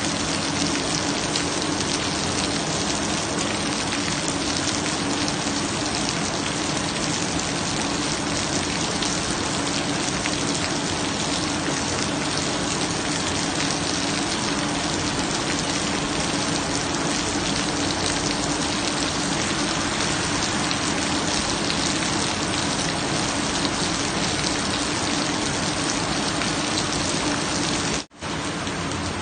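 Steady, heavy-sounding rain falling and pattering on surfaces, with a faint steady low hum underneath. It breaks off for an instant near the end, then carries on a little quieter.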